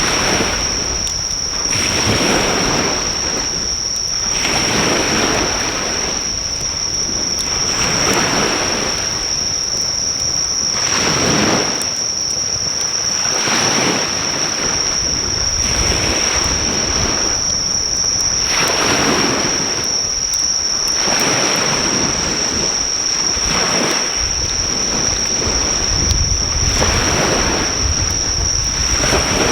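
Sea waves breaking on a shore, the rush swelling and falling away every two to three seconds, with a steady high-pitched insect trill over it.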